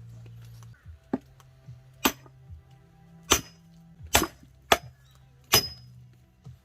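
Six sharp chopping knocks about a second apart, a few with a short metallic ring, over quiet background music.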